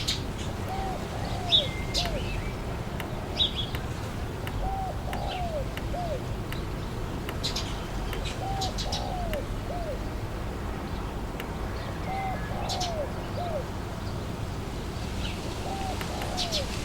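A dove cooing, a three-note phrase repeated about every four seconds, five times, with short high chirps from smaller birds over a steady wind hiss.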